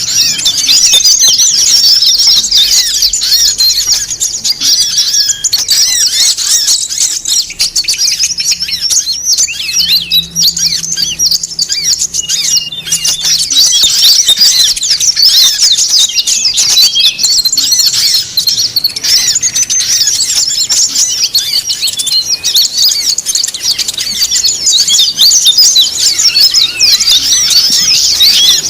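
Dense, noisy chorus of many small songbirds chirping and trilling rapidly and continuously at high pitch. It is a 'burung ribut' bird-lure mix of small-bird calls played to draw wild birds in.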